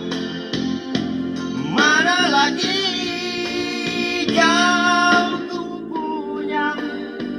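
Singing with instrumental accompaniment: a solo voice holding long notes with vibrato, about two seconds in and again near the middle, over a steady backing.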